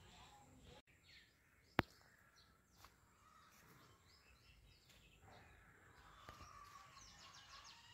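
Faint bird chirping in the background, with quick repeated chirps near the end and one sharp click about two seconds in.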